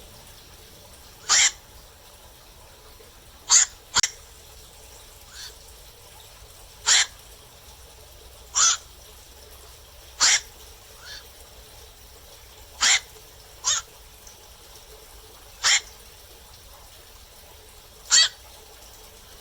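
Black-crowned night heron calling at night: a series of about ten short, harsh single calls, one every two seconds or so, some in quick pairs, with a few fainter calls from farther off in between.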